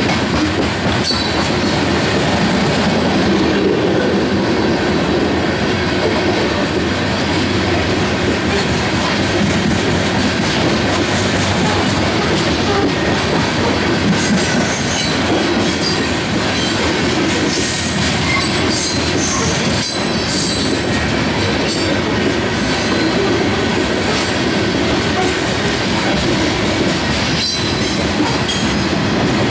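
Covered hopper cars of a freight train rolling past on steel wheels, a steady rumble and clatter from the wheels on the rails, with brief high wheel squeals a few times.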